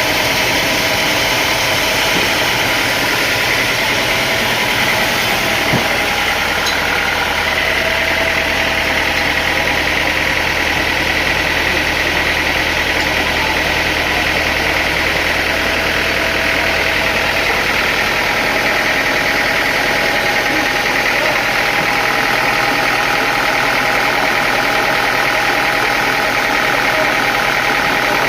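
Sawmill machinery or its engine running steadily, with a continuous mechanical drone and a few held tones. A single sharp tick comes about six seconds in, and a low hum underneath fades out a little past the middle.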